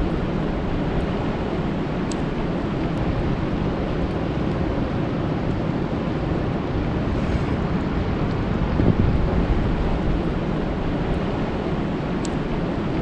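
Steady rain falling on a lake: a dense, even rushing noise weighted toward the low end, with a few faint sharp ticks of single drops.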